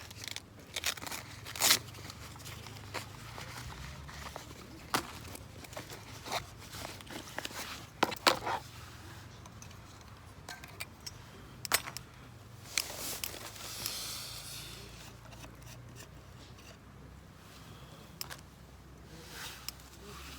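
Camping gear being handled and set up by hand: scattered knocks, clicks and scrapes, the loudest about two seconds in and around eight seconds in, with a stretch of rustling a little past halfway.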